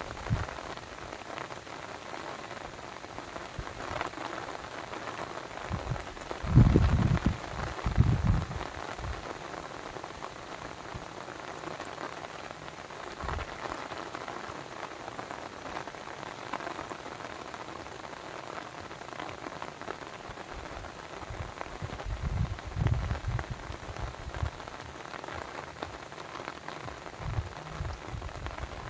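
Steady hiss and patter of falling or running water, with a few low rumbles at about seven seconds in and again at around twenty-three seconds.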